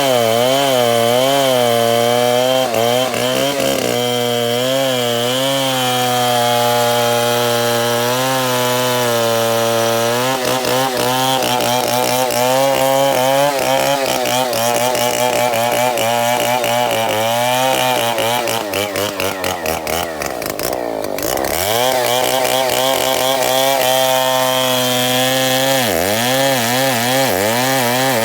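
Two-stroke chainsaw running at high revs while cutting into a tree, the engine pitch wavering as the chain loads and unloads. About two-thirds of the way through the revs sink sharply and pick back up, and they dip briefly again near the end.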